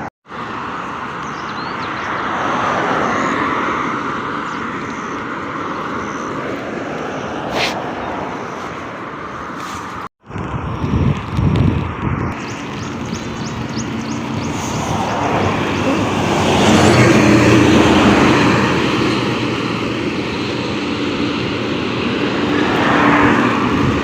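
Road traffic and wind noise on the microphone. In the second half a motor vehicle's engine grows louder and passes close by.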